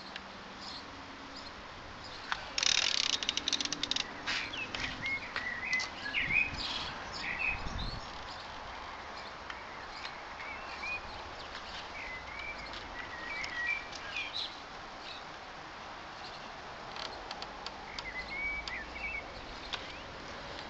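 Songbirds chirping in short warbling phrases, with a quick run of rapid clicking from a ratchet wrench about two and a half seconds in and scattered tool clicks on the engine.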